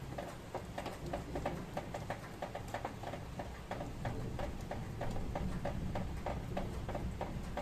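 Rain: drops tapping irregularly on a hard surface, several sharp ticks a second, over a low steady rumble.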